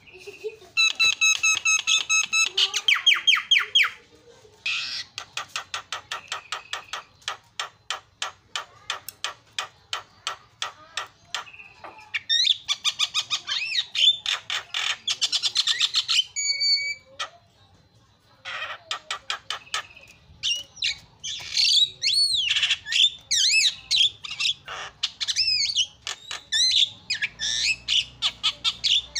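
Javan myna singing a varied song: long runs of rapid, repeated harsh notes, squawks, and whistled phrases that glide up and down, broken by a couple of short pauses.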